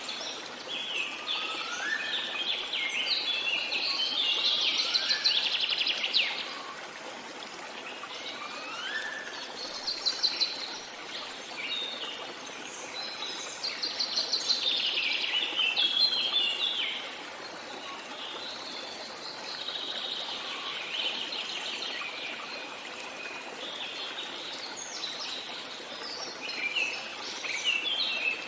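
Several songbirds singing in bouts of rapid trills and chirps, with a few short rising whistles in the first ten seconds, over a steady background hiss.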